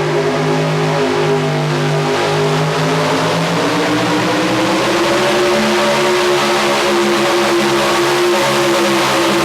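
A pulling vehicle's engine running hard at high revs. Its pitch sags slightly, climbs a little past three seconds in, then holds steady and loud.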